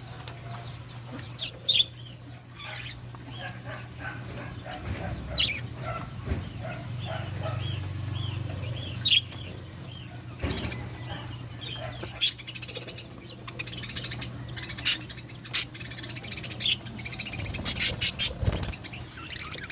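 Budgerigars chirping and chattering in short, rapid notes, mixed with sharp clicks and rustles that come thicker near the end, over a steady low hum.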